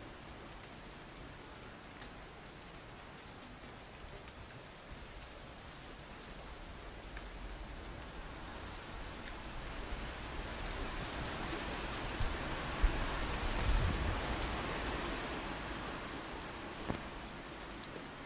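Rain falling steadily, an even hiss with the odd sharp drop tick. It grows louder about halfway through, with a low rumble at its loudest, then eases off.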